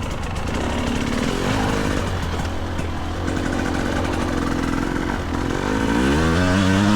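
GasGas EC300 two-stroke single-cylinder dirt bike engine running under load on a hill climb. It holds a fairly steady pitch, then revs up near the end as the throttle opens.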